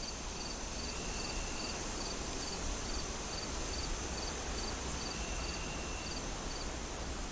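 Night-time cricket chirping over a steady hiss of forest ambience: short, evenly spaced chirps, about two a second, that stop about six seconds in.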